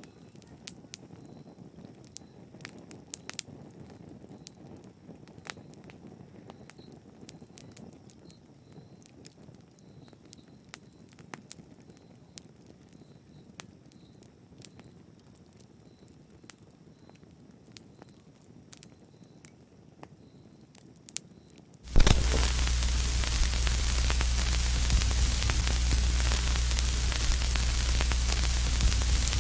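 Wood fire crackling, with a soft low rumble and scattered sharp pops. About three-quarters of the way through, it switches abruptly to a much louder, steady hiss with a low hum underneath.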